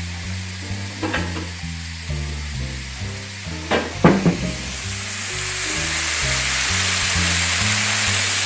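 Chicken and shrimp sizzling in oil in a frying pan, the sizzle swelling louder about halfway through, with a few short knocks, the loudest about four seconds in.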